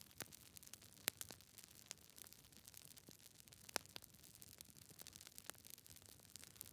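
Wood fire in a fireplace, logs crackling faintly with irregular sharp pops, two louder pops about a second in and just before four seconds.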